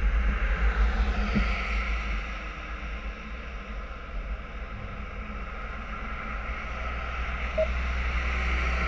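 Car driving on snowy roads: a steady low rumble with tyre and road hiss, easing off in the middle and building again toward the end.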